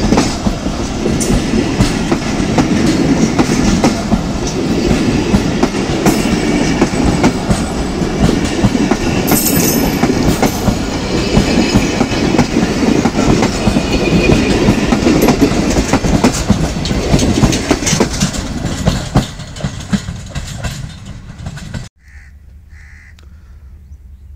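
A train passing close by at speed, its wheels clattering rapidly and loudly over the rail joints. The clatter fades near the end and then cuts off suddenly to a quiet background.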